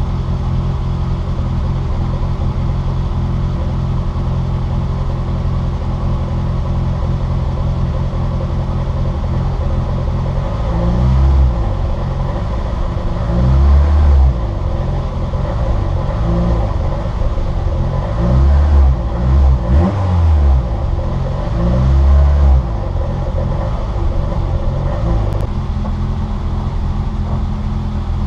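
Citroën Saxo VTR race car's engine running hard: a steady high-revving note for about ten seconds, then pitch falling and rising repeatedly through gear changes and lifts, with several louder swells, before settling back to a steady note near the end.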